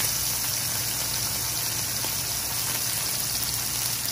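Asparagus spears frying in oil in a nonstick pan: a steady sizzling hiss with a few faint crackles.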